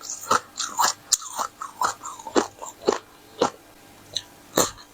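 Crunching and chewing of hard frozen ice, a tartary-buckwheat ice 'flatbread', close to the microphone. There is a sharp crunch roughly every half second, with a brief pause about three and a half seconds in before another crunch near the end.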